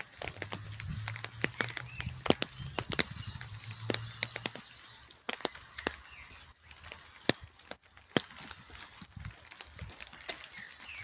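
Raindrops tapping irregularly close to the microphone, sharp ticks of varied loudness. A low steady hum sits under them for the first four seconds or so, then fades out.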